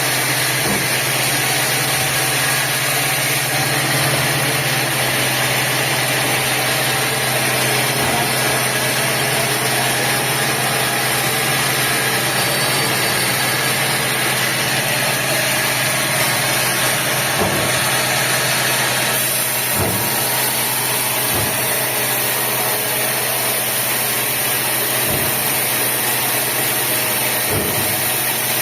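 Sawmill machinery running steadily: an even motor hum with a broad hiss, and a few faint knocks in the second half.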